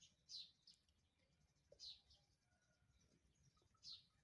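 Faint bird calls: three short, high chirps, each sweeping quickly downward, spread a second and a half to two seconds apart.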